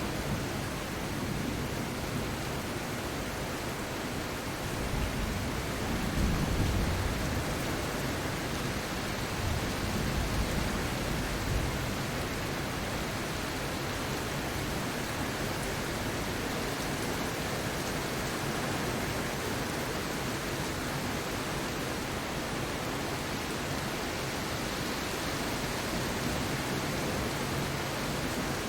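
Steady rain, an even hiss, with a deeper low rumble swelling twice in the first half.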